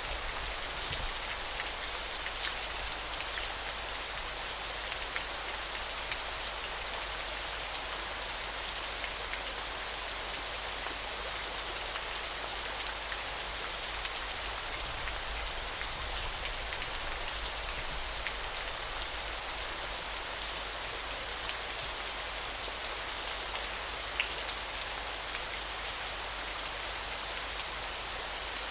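River water running, a steady rushing and splashing. A high-pitched steady trill comes and goes over it in bouts of one to three seconds, near the start and again through the second half.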